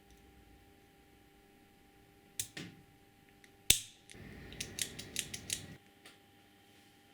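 Small mechanical parts being handled at a workbench: a couple of clicks, a sharp knock, then a short stretch of scraping with a quick run of clicks that stops suddenly.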